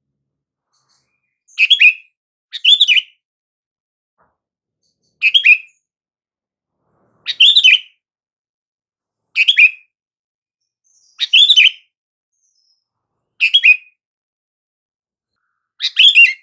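Sooty-headed bulbul (kutilang) calling: a short, bright phrase repeated about every two seconds, eight times.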